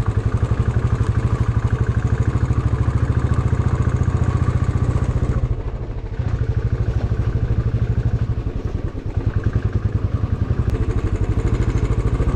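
Motorcycle engine running at a steady pace while riding, with a fast even throb; the engine eases off briefly twice, about five and a half and eight and a half seconds in.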